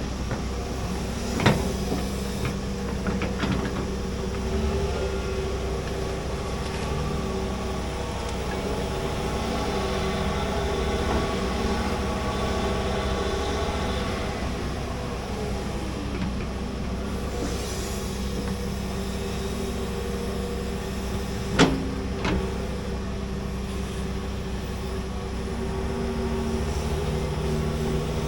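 Large hydraulic excavator's diesel engine running steadily while digging a trench, with two sharp clanks, one about a second and a half in and another about twenty seconds later.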